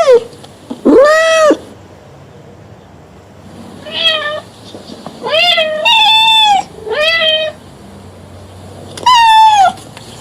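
Cat meowing repeatedly: about six separate meows, each a short call that rises and then falls in pitch. Three of them come close together around the middle.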